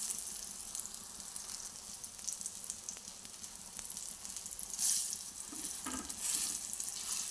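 Gram-flour-coated eggplant slices shallow-frying in oil on a flat iron tawa, cooking on their second side after being flipped: a steady crackling sizzle that swells louder twice in the second half.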